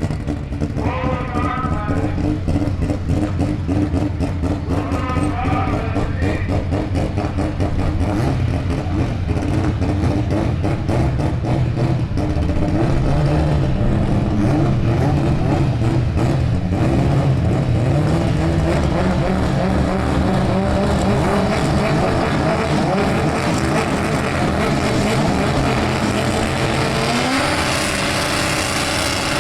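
Car engine running loudly with a rough, rumbling idle, revved up and down a few times in the middle, then rising steadily in pitch near the end as it accelerates.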